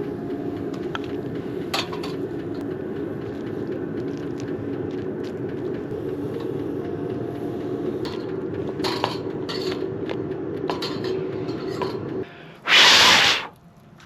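Light clinks and scrapes of cookware over a steady low rumble that stops about twelve seconds in, followed by a short loud hiss.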